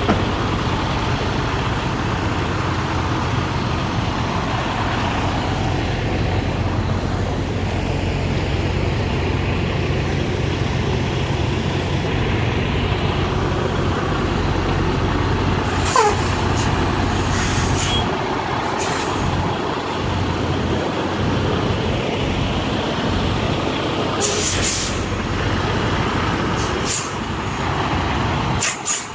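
Semi truck's diesel engine running steadily, heard from the cab with the windows down, with several short hisses of air from the truck's air system about halfway through and again near the end.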